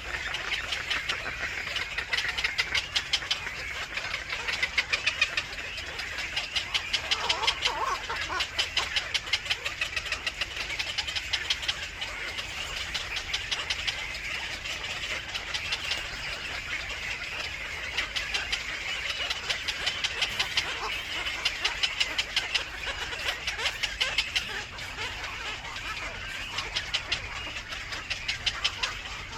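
Birds at a nest chirping rapidly and high-pitched, many chirps a second, swelling in bursts every second or two.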